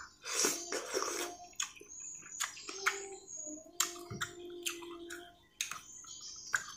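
Close-up eating sounds: wet chewing and lip-smacking, heard as a run of irregular sharp mouth clicks, as raw cassava leaves and rice eaten by hand are chewed. A low steady hum lasts about two seconds in the middle.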